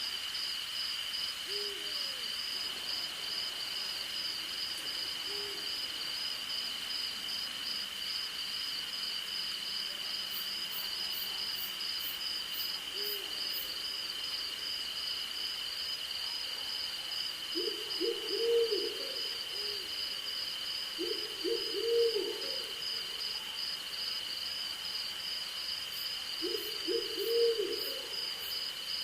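Crickets and other insects trilling steadily, one high even tone with a faster pulsing trill above it, while an owl hoots low: single hoots in the first half, then three short runs of three or four quick hoots in the second half.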